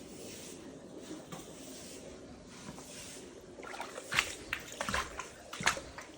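Floodwater trickling and sloshing steadily, with a quick run of sharp splashes starting a little past halfway.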